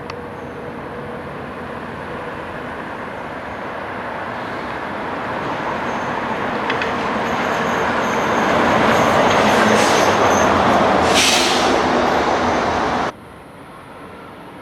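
A large vehicle passing close, its noise building steadily to a peak, with a short hiss about 11 seconds in, then cut off abruptly.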